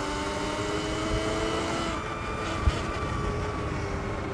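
Sur-Ron X electric dirt bike's motor whining as it rides, rising in pitch for about two seconds, then dropping back as the throttle eases, over wind rumble on the microphone. There is one sharp knock a little before three seconds in.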